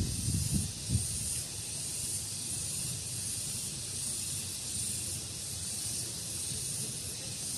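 Outdoor daytime ambience: a steady high hiss that swells faintly at regular intervals, with wind rumbling on the microphone during the first second.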